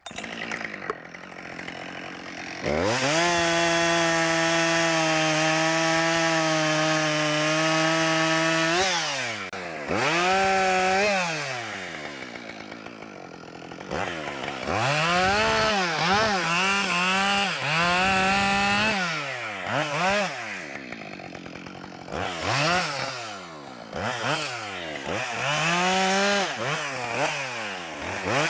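Two-stroke chainsaw limbing a log: it idles briefly, then runs at full throttle for about six seconds, then revs up and down again and again in a string of short cuts.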